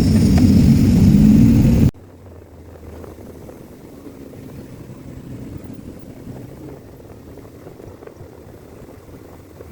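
Vehicle engine and road noise running loud, cutting off abruptly about two seconds in to a much quieter low rumble.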